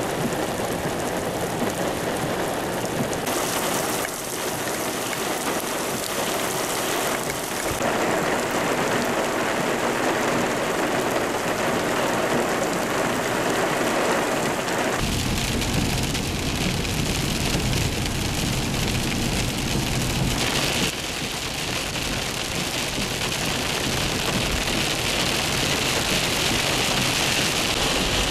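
Heavy rain pouring steadily, its sound changing abruptly several times. From about halfway on, a low rumble lies under the rain.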